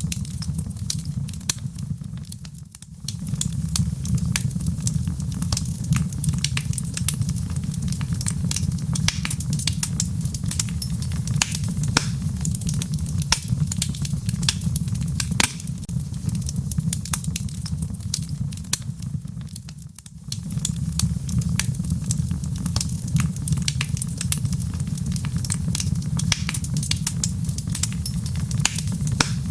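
Fireplace fire crackling: frequent irregular sharp pops and snaps over a steady low rumble. The rumble fades out briefly twice, about three seconds in and again about twenty seconds in.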